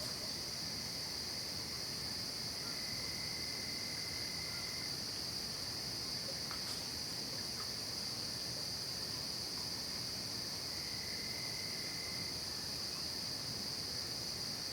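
Night insect chorus of crickets: a steady, high-pitched unbroken trilling, with a fainter, lower trill joining twice for a second or two.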